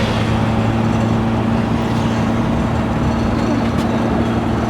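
Tuk-tuk engine running at a steady pitch while riding along, under an even rushing noise of the ride.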